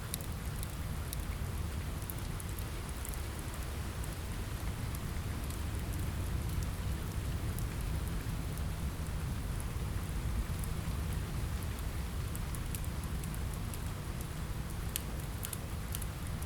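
Steady rain falling, with a deep, even rumble underneath and scattered sharp crackles of a wood fire, clustered near the start and again near the end.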